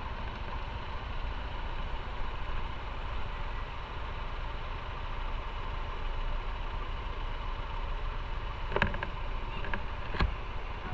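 Motorcycle engine running steadily at low revs, with a few sharp clicks near the end.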